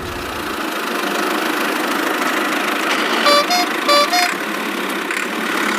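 Cartoon vehicle sound effect: an engine running steadily, with three short horn honks a little past halfway.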